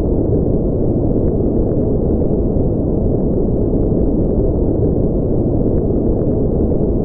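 A steady, unchanging artificial noise track for sleep, deep and muffled with no high hiss, closer to brown noise than true white noise.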